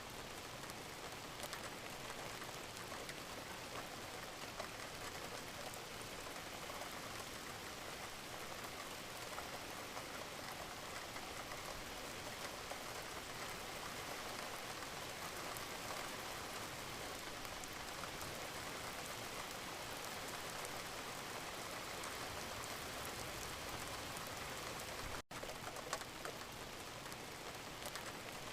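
Gentle rain falling steadily, an even patter of drops. It cuts out for an instant about 25 seconds in, where the recording loops.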